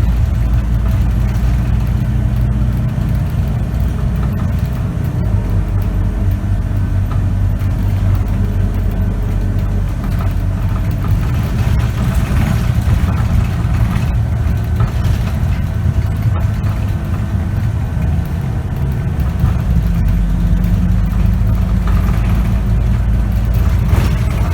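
Scania K94UB bus's diesel engine and ZF automatic transmission running as the bus travels, heard from inside the bus; the engine note shifts a few times.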